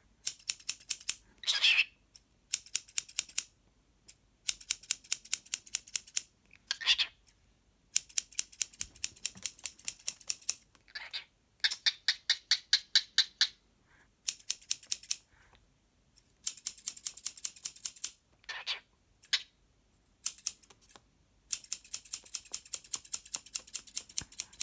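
Cockatiel imitating the clicking of scissors: rapid runs of sharp, evenly spaced clicks, several a second, in bursts of one to two seconds with short pauses, and a few brief squawks between the runs.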